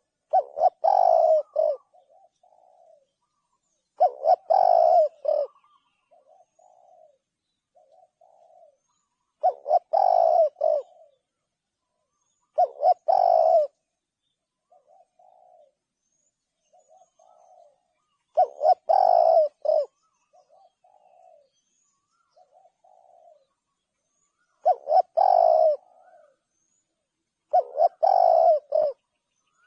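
Spotted dove cooing: a loud coo phrase about every three to six seconds, seven in all, with softer short coos between the phrases.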